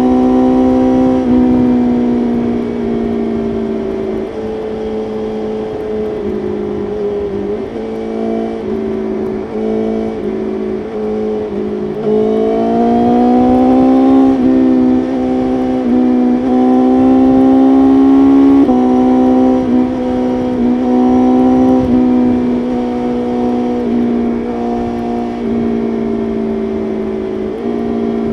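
BMW S1000RR inline-four engine under way at highway speed, heard from on the bike, with the throttle rolled on and off repeatedly. About twelve seconds in the pitch climbs steadily as it accelerates, holds high for several seconds, then eases back, with wind rush underneath.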